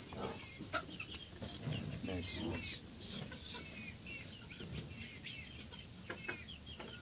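Birds chirping: many short, high calls in quick succession, over a low background rustle.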